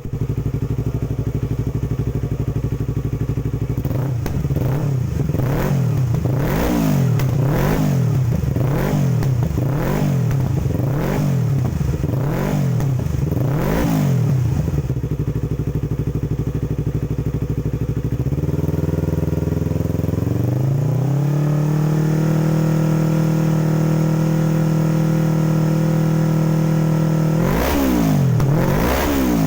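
Yamaha R25's 250 cc parallel-twin engine through an R9 Valencia aftermarket racing exhaust, revved while the bike stands still. It idles, then is blipped about once a second a dozen times, drops back to idle, and is then raised to a steady higher rev and held there. More blips come near the end. The exhaust note is calm and soft.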